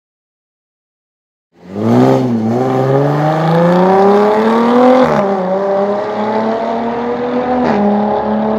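Jaguar F-Type's engine accelerating hard, starting about one and a half seconds in, its pitch climbing steadily, with a gear change about five seconds in and another near the end, after which it holds steady.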